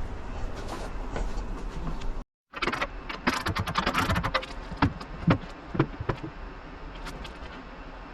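Metal hand tools clinking and knocking in a run of irregular sharp clicks, some briefly ringing, as spanners and sockets are handled to undo the front-end bolts. The sound cuts out completely for a moment about two seconds in.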